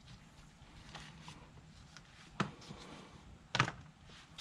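Small metal hand tools being handled: a sharp click about halfway through, then two more clicks close together near the end, over a quiet room.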